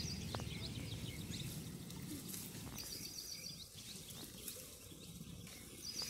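Birds chirping over a low rumble of outdoor background noise, with a quick run of repeated high chirps about three seconds in and again at the end.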